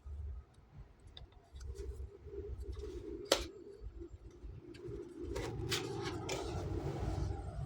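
Packaging being handled and opened by hand: rustling with scattered clicks, one sharp click about three seconds in, and the rustling growing fuller near the end.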